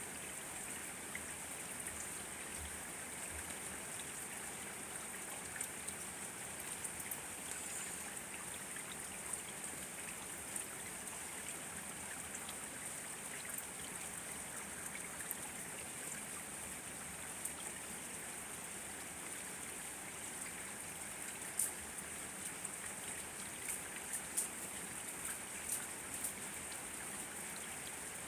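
Steady rain falling, a continuous hiss with individual drops ticking on surfaces; several louder drop hits come in the last few seconds.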